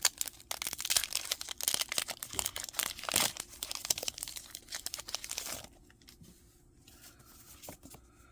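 Foil wrapper of a Pokémon booster pack being torn open and crinkled: a dense run of crackles and rips that stops about five and a half seconds in, leaving only faint handling.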